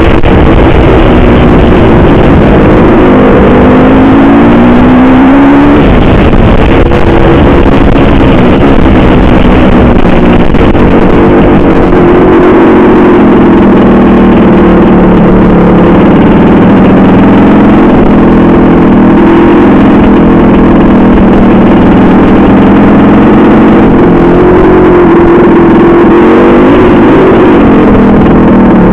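Honda CR500 two-stroke single-cylinder dirt bike engine under way, loud, with its pitch climbing and falling as the throttle is worked, then holding a steadier high note with small swells.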